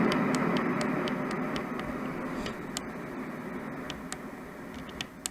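Roffie N600 sound machine playing its white noise sound, a steady hiss that fades steadily as the volume is stepped down from maximum, with a run of light clicks over it.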